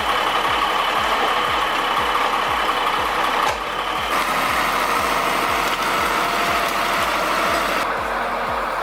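An engine running steadily, with a low, regular thumping about three times a second.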